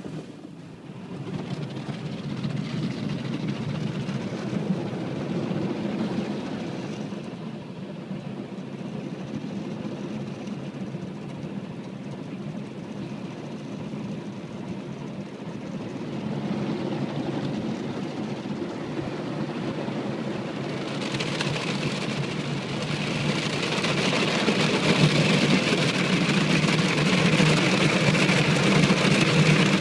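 Car wash running: a steady machine hum with water spraying. It grows louder and hissier about two-thirds of the way through.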